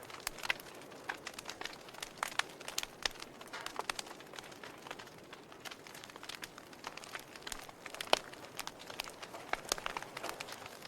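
Wood fire in a fireplace crackling: irregular snaps and pops over a soft hiss, with one sharper pop about eight seconds in.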